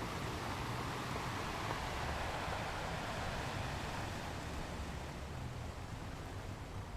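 Sea waves washing ashore: a continuous rush of surf that is fullest in the first half, then slowly ebbs away.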